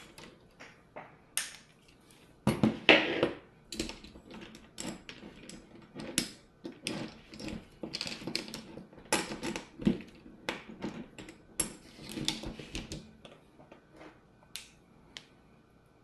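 Irregular clicks, taps and clatter of small hand tools and hard plastic and metal parts being handled while working on an RC crawler truck, loudest about three seconds in and busy again from about nine to thirteen seconds.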